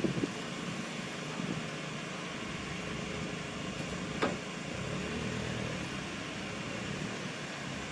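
Truck engines running as vehicles move about, a steady low rumble that swells slightly about five seconds in, with one brief sharp click about four seconds in.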